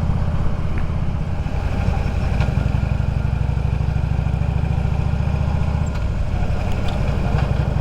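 Motorcycle engine running steadily while riding, a deep low rumble with slight changes in pitch about two and a half and six seconds in.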